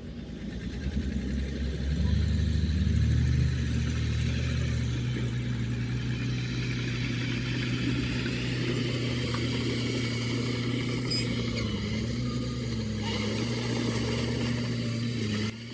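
Heavy diesel engine of earthmoving equipment revving up about two seconds in, then running steadily under load with small dips in pitch; the sound cuts off abruptly near the end.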